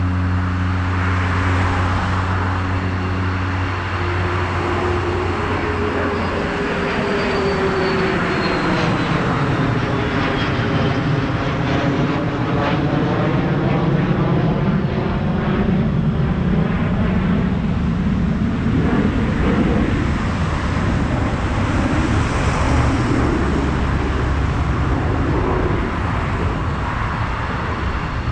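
An airplane passing low overhead: a loud, steady engine rush with a whine that glides down in pitch as it goes by.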